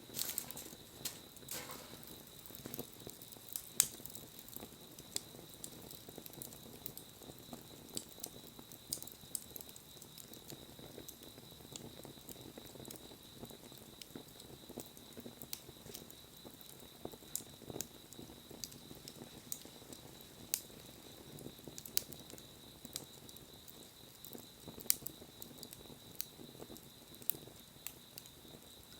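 Wood fire crackling, with irregular sharp pops over the soft rush of the flames; one pop about four seconds in is louder than the rest.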